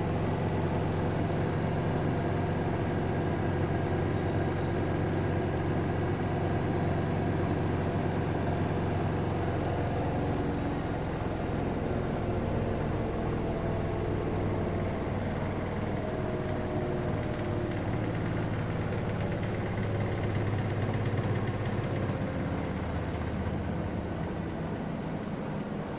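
Siemens front-loading washing machine in its final 1400 RPM spin: a steady motor-and-drum hum with no vibration or knocking. Its tone changes slightly about ten seconds in as the cycle nears its end.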